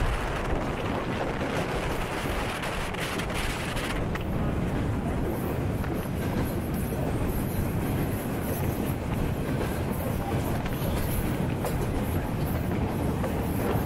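Electric passenger train running along the track, heard from an open carriage window: a steady rumble of wheels on the rails.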